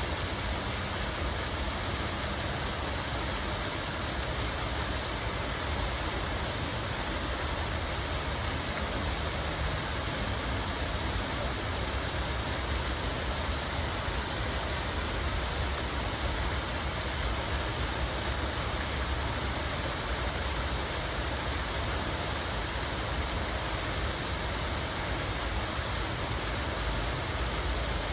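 Steady rush of falling water, even and unbroken, with a low rumble underneath.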